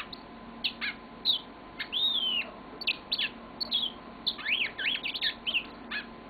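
Yellow-fronted canary singing: a fast run of varied chirps and quick sweeping notes that ends about six seconds in.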